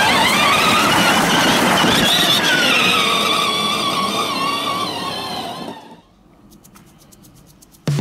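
Police-style siren wailing, gliding up in pitch over the first two seconds and back down, then fading out about six seconds in. Faint rapid clicks follow.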